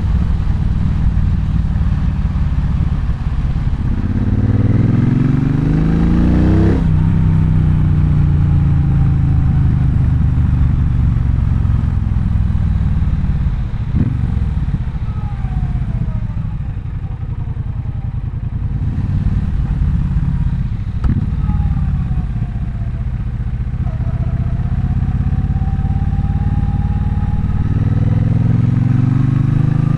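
Triumph Bonneville Bobber's 1200 cc parallel-twin engine under way. The revs climb from about four seconds in and drop off sharply near seven seconds. The engine then runs lower and eases off through the middle, and pulls up in revs again near the end.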